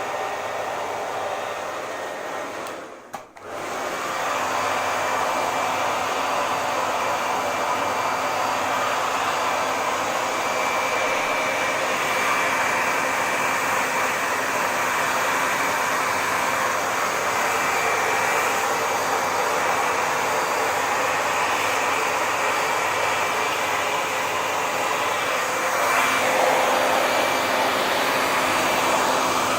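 Hair dryer running steadily with a dense airy whoosh and a faint high whine. About three seconds in it drops out for a moment and comes back slightly louder, and its tone shifts a little near the end.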